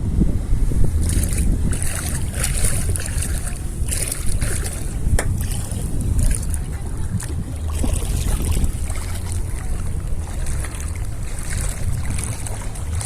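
Wind buffeting the microphone in a steady low rumble, over the hiss of moving water that swells and fades every second or two.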